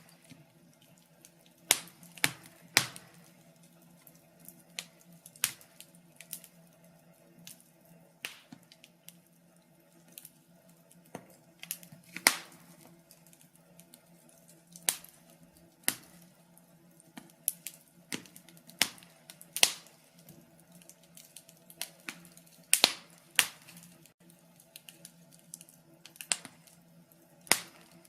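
Wood fire crackling: irregular sharp pops and snaps, some loud and some faint, over a faint steady low hum.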